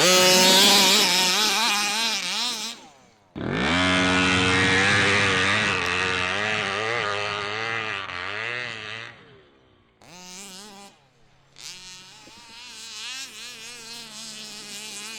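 Gas-powered HPI Baja 5B's 29cc two-stroke engine revving hard and unevenly, cutting out about three seconds in. It catches again almost at once and revs for several seconds, then the sound grows much fainter, still rising and falling, from about ten seconds in.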